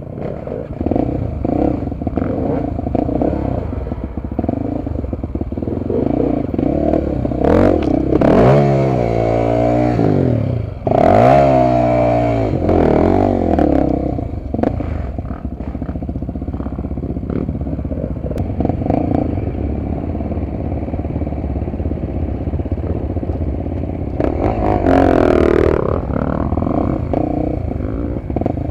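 Honda XR250 Tornado's single-cylinder four-stroke engine running while riding off-road, revving up and down several times: about eight seconds in, again around eleven seconds, and near the end. Clattering from the bike over rough ground runs under it.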